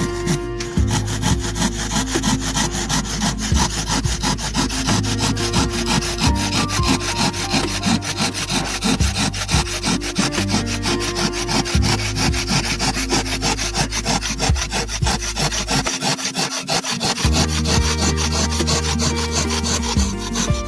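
Handsaw cutting wood in quick, continuous strokes, over background music with a low bass line.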